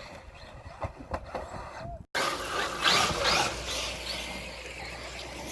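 Radio-controlled off-road trucks running on a dirt track: a few knocks and tyre scrabble, then an abrupt cut about two seconds in, after which a louder noisy rush of motor and tyres comes in, strongest around three seconds.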